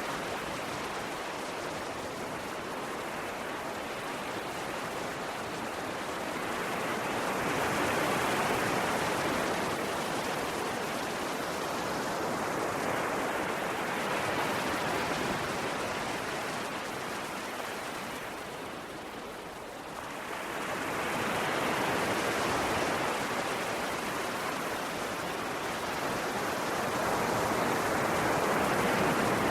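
Ocean waves breaking and washing on the shore: a continuous surf hiss that swells and eases every few seconds, with a lull about two-thirds of the way through before the next wave builds.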